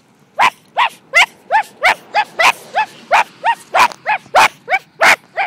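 Girls imitating dogs, letting out a rapid string of short, loud woof-like barks, about three a second, starting about half a second in.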